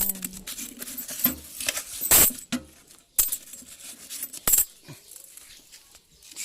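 Five-peso coins clinking together as they are handled and counted: a few separate metallic clinks about a second apart, the loudest about two seconds in.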